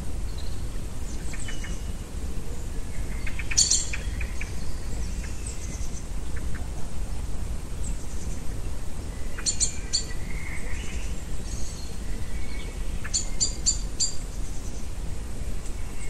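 Small birds calling: a few clusters of short, sharp, high notes repeated quickly, over a steady low rumble.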